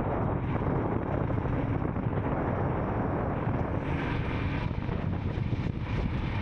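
Royal Enfield Scram 440's single-cylinder engine running steadily on the move, mixed with wind rushing over the microphone.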